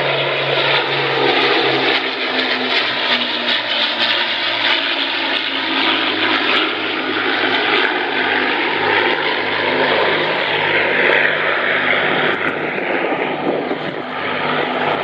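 Aerobatic display aircraft flying past, a loud engine drone whose pitch shifts as they pass.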